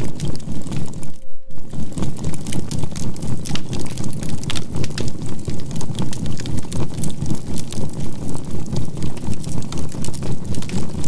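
Campfire of burning charcoal crackling and popping over a low rumble, mixed with a steady 528 Hz tone, the whole sound pulsing about four times a second as a binaural beat. It cuts out for a moment a little over a second in.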